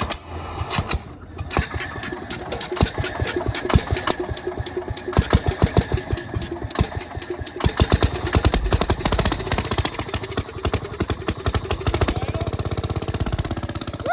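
Cub Cadet garden tractor engine running roughly just after starting from long disuse, firing unevenly, then settling into a steady, even idle near the end.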